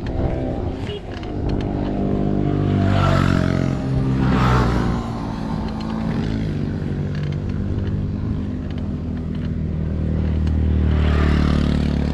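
A motor vehicle's engine running close by, a steady low drone that swells around three to five seconds in and again near the end.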